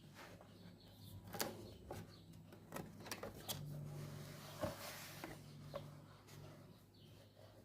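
Nib of an old Soyuz bakelite fountain pen scratching and squeaking on paper as it writes, in short irregular strokes.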